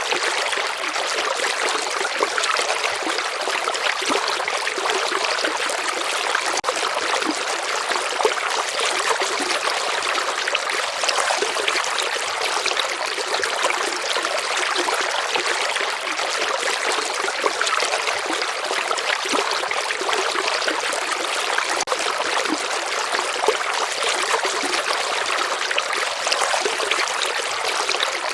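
River water flowing steadily, an even trickling rush with little deep rumble.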